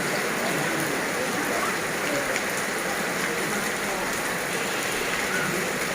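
Rain falling steadily, a continuous even hiss of rain on surfaces.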